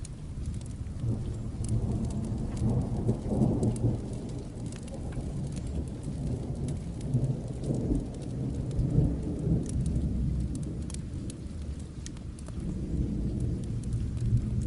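Distant thunder rumbling low and rolling over steady rain, swelling about a second in and again near the end. Light sharp crackles sound throughout.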